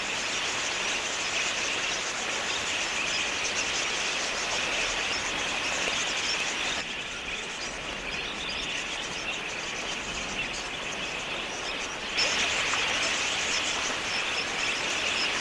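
A large flock of wild budgerigars chattering together, a dense mass of high chirps, dropping a little about seven seconds in and growing louder again about twelve seconds in.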